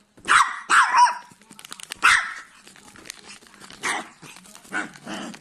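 Dog barking repeatedly: three quick barks in the first second, another about two seconds in, then a few weaker, spaced barks.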